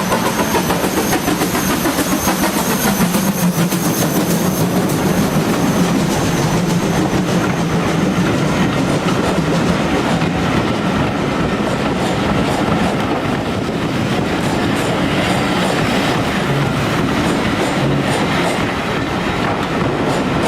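Heritage passenger train hauled by GWR 5600 class 0-6-2T steam locomotive No. 6695 running steadily along the line, its wheels clicking over the rail joints.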